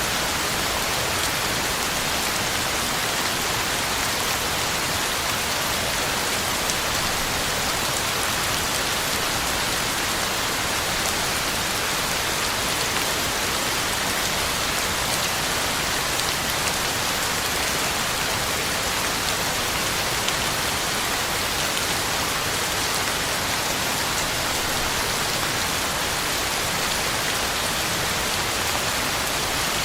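Heavy rain falling steadily on the ground and leaves, an even, unbroken hiss of drops.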